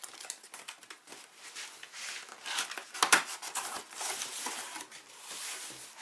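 Packaging being handled and crinkled during unboxing: irregular rustling and crackling, with a sharp snap about three seconds in.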